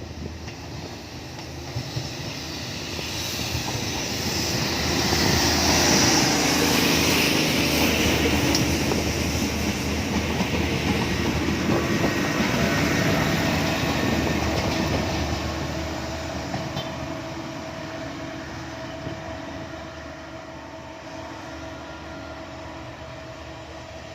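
A train passing by on the track, its rumble and wheel clatter building over the first few seconds, staying loud for about ten seconds, then fading away.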